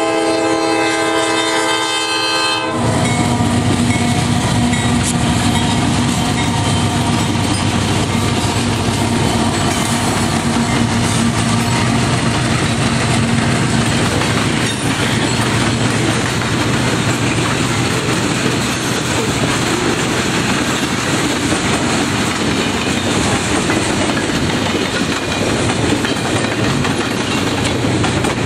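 Diesel freight locomotive horn sounding a multi-note chord that cuts off about three seconds in, then the train passing close: a steady locomotive engine note for a while, and the continuous rumble and clickety-clack of freight car wheels on the rails.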